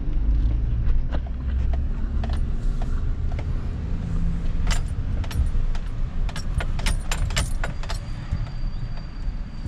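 Vehicle driving slowly with a steady low engine and road rumble, heard from inside the cab. Over it come scattered clicks and a burst of jangling rattles in the middle of the stretch, typical of keys swinging on the ignition.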